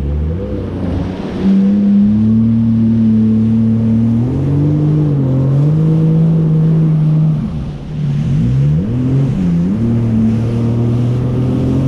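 Jet ski engine running under way, its pitch falling and rising as the throttle is eased off and opened again: once about a second in, and again for a couple of seconds around eight seconds in. It holds a steady pitch in between.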